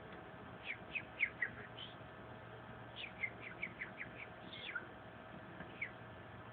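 Peregrine falcon calling: two runs of short, high, falling notes, the second faster at about five a second, and one more note near the end.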